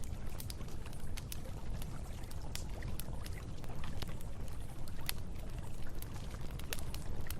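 Wood campfire crackling with irregular sharp pops and snaps, over the steady low rush of flowing river water.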